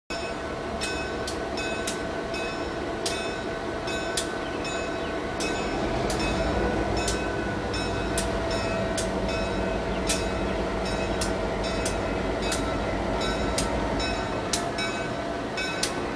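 A slow train approaching: a steady rumble that grows louder about six seconds in, with sharp clicks about once a second and a faint steady whine.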